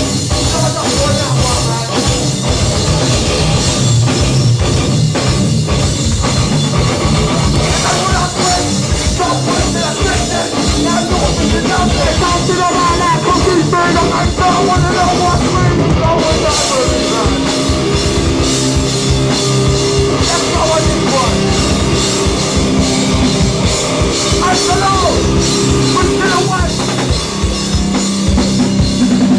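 Hardcore band playing live, with distorted guitars, bass and pounding drums. About halfway through, long held guitar chords ring out over the drums.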